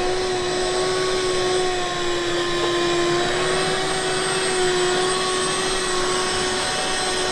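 A steady machine drone with a whining tone that wavers slightly in pitch, over a noisy hiss.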